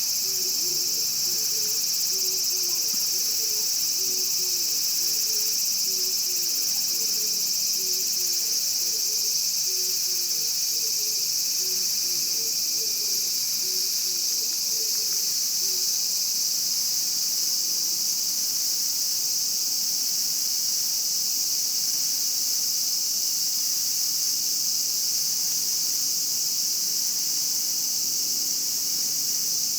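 Japanese cicadas singing in a chorus, a continuous high, even buzzing drone that holds steady throughout. Faint low chirping notes sound under it during the first half.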